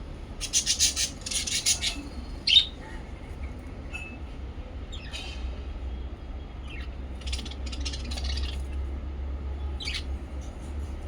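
Pet lovebirds and budgies chirping and chattering. Two quick runs of rapid chirps come in the first two seconds, then a single sharp call, the loudest sound, at about two and a half seconds, with more bursts of chirping later. A steady low hum runs underneath.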